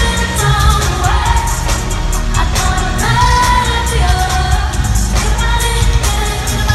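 Live pop concert music: a female lead vocal sings held, bending lines over a loud amplified backing track with heavy bass and a steady beat.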